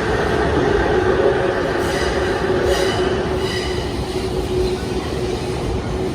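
Electric train running through a station with a steady rumble and hum, its wheels squealing in high tones from about two seconds in.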